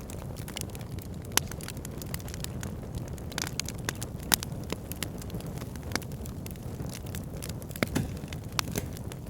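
Fire burning in a fire pit: irregular sharp crackles and pops over a steady low rush of flame, with a few louder snaps.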